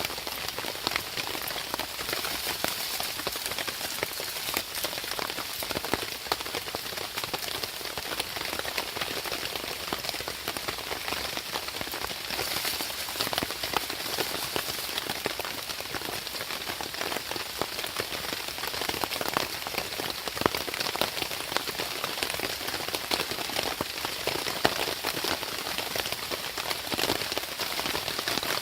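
Steady rain falling, a dense patter of many small drop hits that never lets up.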